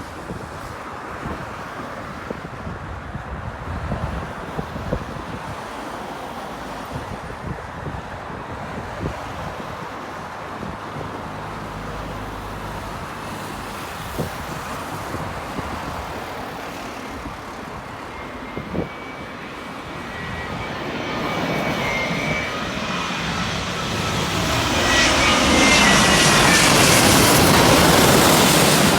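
Jet airliner approaching. Its engine rush and high whine grow steadily from about two-thirds of the way in, and are loudest near the end.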